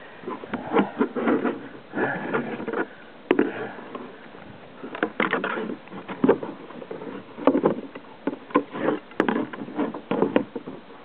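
Irregular bursts of knocking, clattering and scraping on a fishing kayak, with a few sharp clicks.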